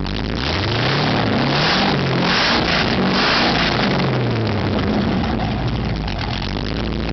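Holden V8 running with its exhaust cutout open so the exhaust bypasses the muffler. It is revved up and back down over a few seconds, then settles to a steady idle.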